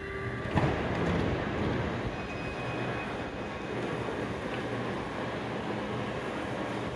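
A train moving through the station: a steady rumble of running gear with a low hum, after a sudden knock about half a second in.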